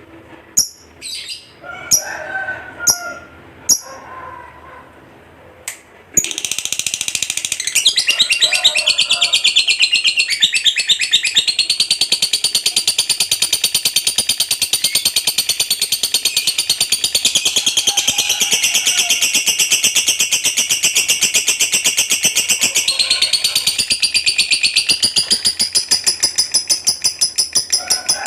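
Lovebird calling: a few sharp single chirps, then from about six seconds in a long unbroken, very rapid chattering trill (the 'ngekek panjang' song prized in contest lovebirds) that runs on for more than twenty seconds.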